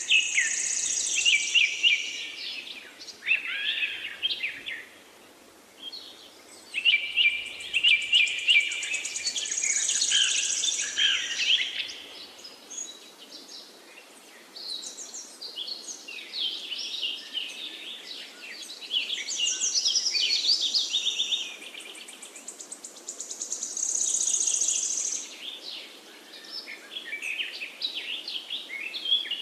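Several songbirds singing together in a forest, phrases overlapping almost without pause. A high trill comes three times, at the start, about ten seconds in and near the end, over a faint steady background hiss.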